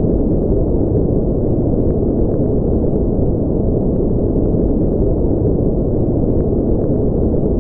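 Steady synthetic noise for sleep, an unbroken deep, muffled hiss with its weight in the low end and almost nothing high, closer to a rumble than a bright white-noise hiss.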